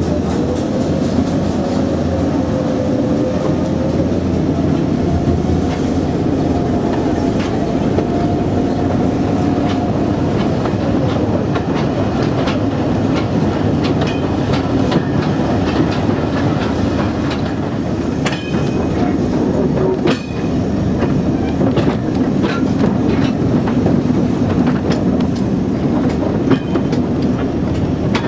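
A brake van rolling behind a British Rail Class 11 diesel shunter, with steady diesel rumble. A whine rises in pitch over the first several seconds as the train pulls away, then drops away. From about twelve seconds in, the wheels click over the rail joints.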